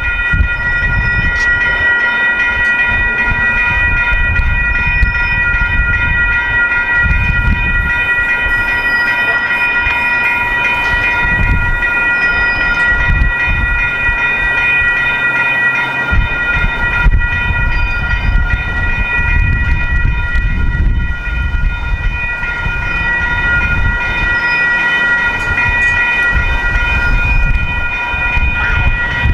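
Freight train of refrigerated boxcars rolling slowly through a grade crossing, its wheels rumbling and clattering over the rails. The crossing's warning bells ring continuously over it.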